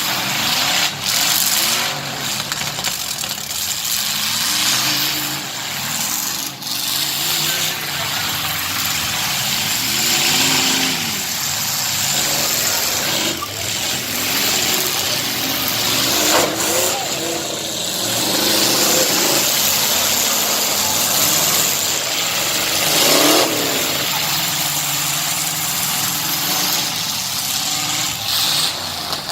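Truck engines running and revving, their pitch repeatedly swelling and falling, with two sharp rev-ups climbing high, about 16 and 23 seconds in.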